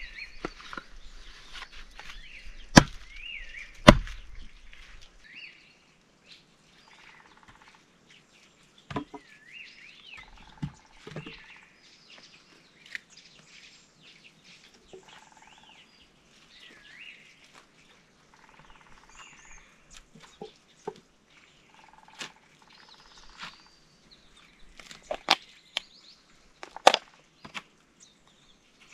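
Birds chirping and singing, with short rising and falling calls all through. Sharp knocks are scattered among them, the loudest a pair about three and four seconds in.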